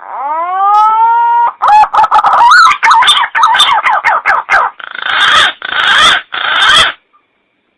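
Punai (green pigeon) call used as a hunting lure: a rising whistled note, then a run of quick warbling whistles, ending in three harsh rasping notes.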